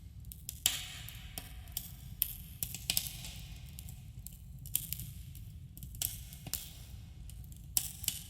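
Campfire crackling: irregular sharp pops and snaps over a steady low rumble of the burning fire, with a slight cave echo.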